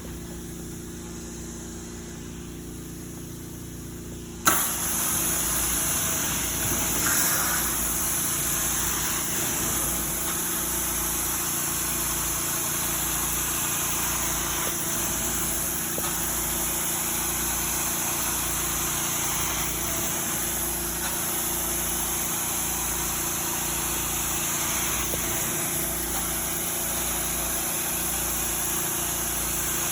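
A carpet-cleaning vacuum machine's motor humming steadily, then a loud rush of vacuum suction comes on suddenly about four and a half seconds in and runs on evenly.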